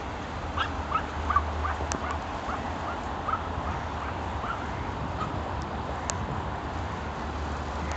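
Ducks quacking in a run of short calls, about two a second, that die away after about five seconds, over a steady low rumble.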